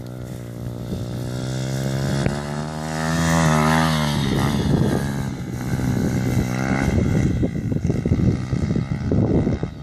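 SJR 125 cc four-stroke single-cylinder pit bike engine running, revving up about three seconds in and dropping back about a second later. Near the end the sound turns choppier and uneven.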